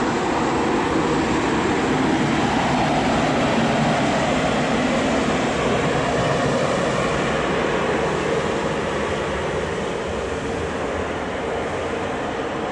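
Regional push-pull train of n-coaches propelled by a DB class 111 electric locomotive pulling out of the station: a steady rumble of wheels on rail and the running locomotive, fading slowly over the last few seconds as it moves away.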